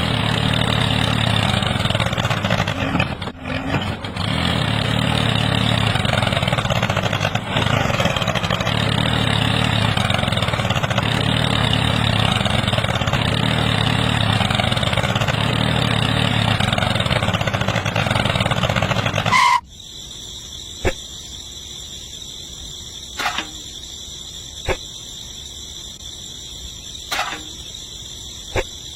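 A motor running steadily that cuts off abruptly about two-thirds of the way through. Afterwards a steady high insect chirring remains, with a few light clicks.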